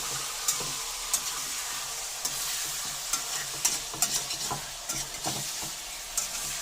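Chicken pieces frying in hot coconut oil, a steady sizzle, with scattered clicks and scrapes of a spoon stirring them in the pan.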